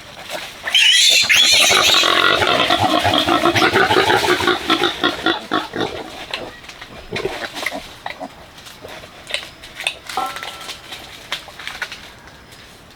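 Pig squealing loudly for about four seconds, starting just under a second in, then only short, quieter sounds.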